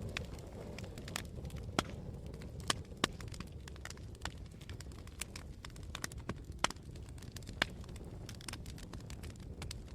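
Wood campfire burning, with irregular sharp pops and crackles, several a second at times, over a steady low rumble.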